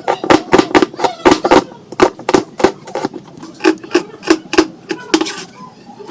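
Knife chopping onions and green chillies on a wooden cutting board: quick, uneven knocks, about three a second, each with a hollow wooden ring.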